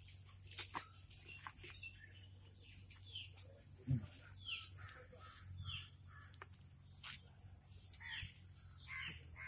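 Birds calling outdoors: short, falling calls repeated a dozen or so times at irregular intervals, over a steady faint high-pitched whine.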